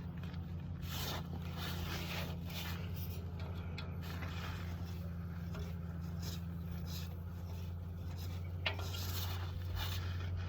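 Irregular faint scraping and small metal clicks of a flat screwdriver turning a valve-lash adjuster screw in a rocker arm, backed off to give the valve some free play. A steady low hum runs underneath.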